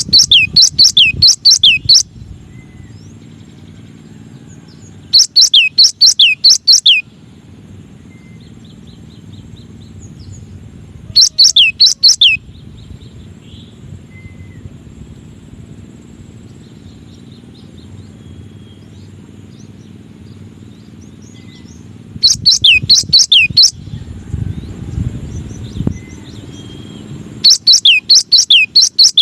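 Cinereous tit (gelatik batu) singing: five bouts of rapid, high, sharply falling whistled notes, each bout about one and a half to two seconds long, with pauses of several seconds between them, over a low steady hum.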